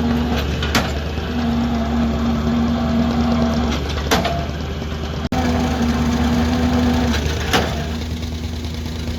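Excavator's diesel engine running steadily, with a steady whine that stops and starts. Three sharp knocks come about three and a half seconds apart, and the sound drops out for a moment a little after halfway.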